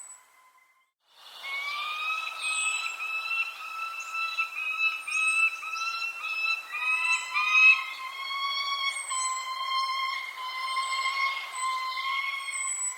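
Birds calling: short high chirps dropping in pitch repeat over a dense layer of steady whistling notes. The sound comes in after about a second of near silence.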